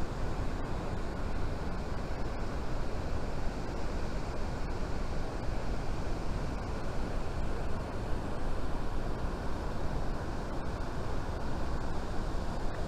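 Waterfall pouring into a plunge pool: an even, unbroken rush of falling water.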